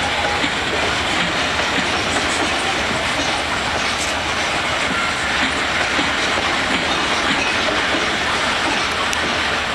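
A long freight train of gondola cars rolling past at steady speed: a continuous clatter of steel wheels clicking over the rail joints.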